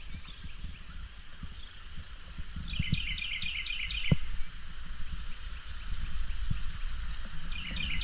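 A songbird sings a short, fast phrase of repeated notes twice, about three seconds in and again at the very end, over a steady outdoor hiss and low rumble. A single sharp tick comes just after the first phrase.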